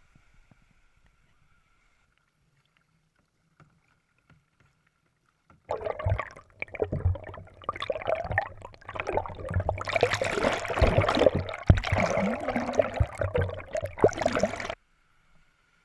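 Water splashing and sloshing around a kayak on open sea, starting about six seconds in, growing louder and hissier, and cutting off abruptly near the end.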